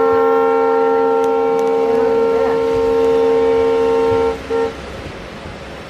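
Locomotive horn sounding on receiving the green signal: one long, loud multi-tone blast, cut off about four seconds in, then a short second blast.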